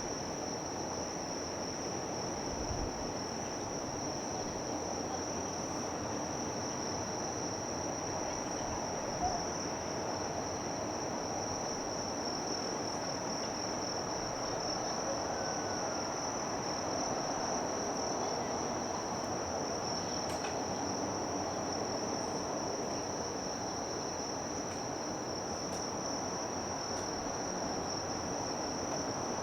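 Insects, most likely crickets, making a steady, unbroken high-pitched drone over a continuous low background noise, with a single small knock about nine seconds in.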